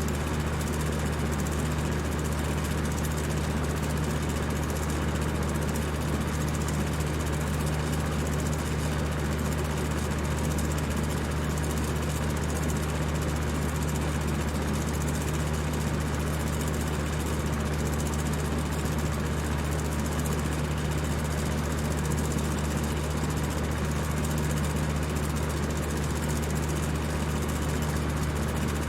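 High-speed electric fan running steadily: a strong low motor hum under an even rush of air, unchanging throughout.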